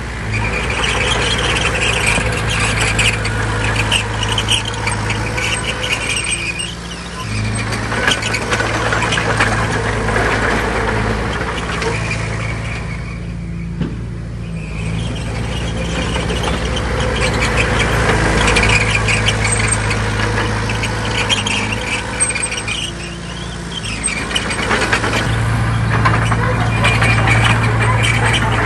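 Heavy diesel earthmoving machine working, its engine rising and easing under load in cycles a few seconds long, with continuous high metallic squealing and clanking.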